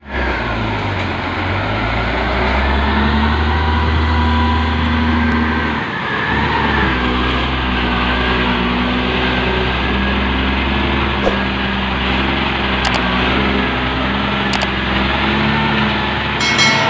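Truck engine running steadily, with a brief dip in its sound about six seconds in.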